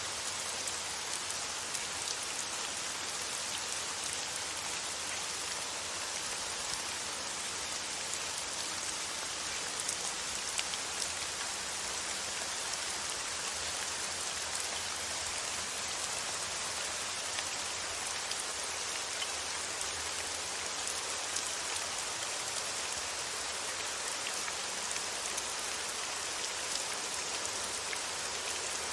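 Steady rain falling, a dense patter of fine drops on a surface with no break or change.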